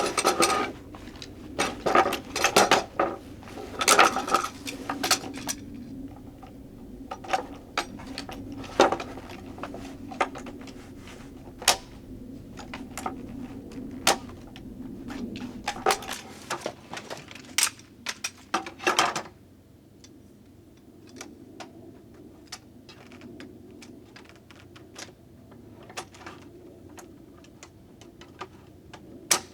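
Irregular clinks and knocks of camp cookware and utensils being handled, busiest in the first two-thirds, over a steady low background noise that fades about two-thirds of the way in.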